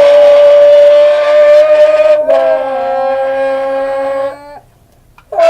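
A steady, droning car-engine imitation made through an open tin can. It holds one pitch, then drops a step lower and quieter, like a car going by. It cuts off near the end, and another starts just before the end.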